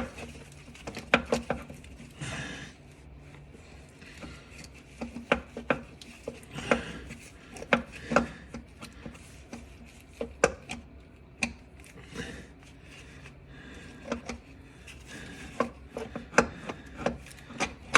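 Hand tools clicking and knocking against metal in scattered, irregular taps while a long starter mounting bolt is worked into place.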